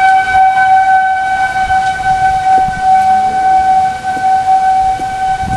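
Outdoor tornado warning siren sounding one steady held tone, with a low rumble underneath.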